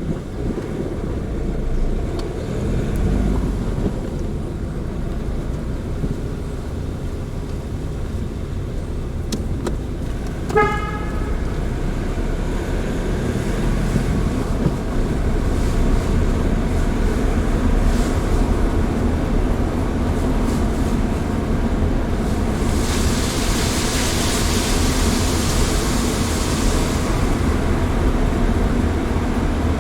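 A car driving along, with steady engine and road rumble that grows a little louder about twelve seconds in. There is a short horn-like beep about ten seconds in and a few seconds of hiss near the end.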